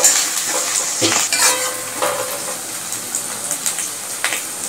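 Half-crushed garlic and green chillies sizzling in hot mustard oil in a metal kadai, with a metal spatula scraping and clinking against the pan a few times as they are stirred.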